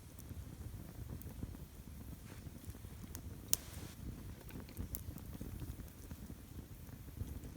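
Wood campfire burning in a stone ring: a low steady flutter of flame with scattered crackles, and one sharp pop about three and a half seconds in.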